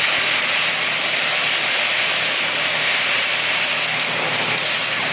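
Candlenut-cracking machine running: a steady, loud hiss-like rush with a faint low hum underneath.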